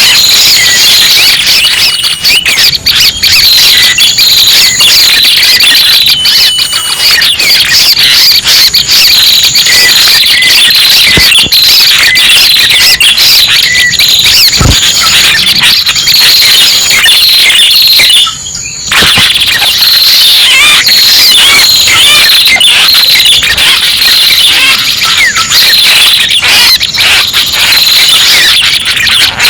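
Bird-lure recording of prenjak pala merah calls: dense, loud, high-pitched chirps and trills with no pause, except a brief drop about 18 seconds in.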